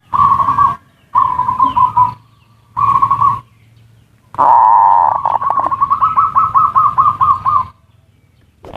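Zebra doves (perkutut) cooing: three short coo phrases, then a longer one about four seconds in that opens with a loud, rougher note and runs into a quick string of rising coos, about six a second. These are the 'ngerot' and 'kuwor' calls used as a lure to stir other perkutut into song and breeding condition.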